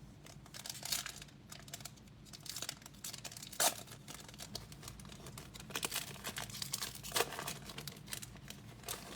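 Plastic card packaging crinkling and trading cards being handled, a run of sharp crackles and rustles with the loudest crackle about three and a half seconds in.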